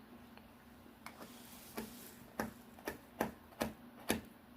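Diamond-painting drill pen pressing drills onto the canvas: a series of light clicks, about two a second, starting about a second in.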